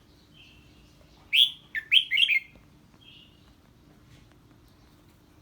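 Red-whiskered bulbul singing: a sharp, loud call about a second in, then a quick run of four or five notes, with fainter notes before and after. This is the excited 'ché' song that bulbuls give when they hear a strange bird.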